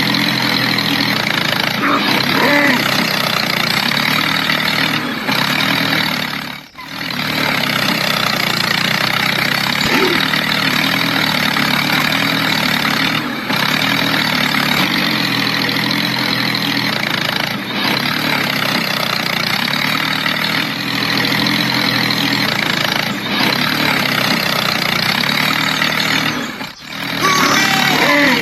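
A heavy engine running steadily, with brief sharp breaks about a quarter of the way in and near the end.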